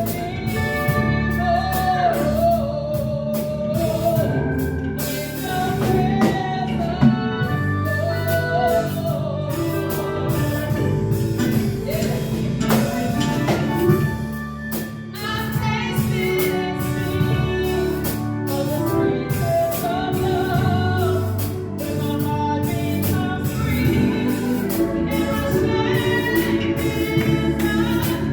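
Live praise-and-worship music: singers, with a female voice among them, leading a worship song over a band with drums and guitar keeping a steady beat.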